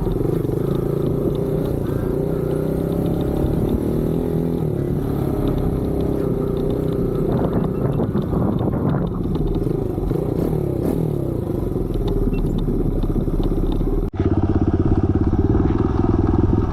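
Kawasaki KLX110 dirt bike's small single-cylinder four-stroke engine running while ridden, its pitch rising and falling with the throttle, with some clattering in the middle. About 14 seconds in the sound cuts abruptly to a louder, steadier engine note.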